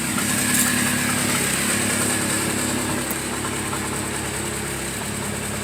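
An engine idling steadily, a low even hum with a faint high whine over it.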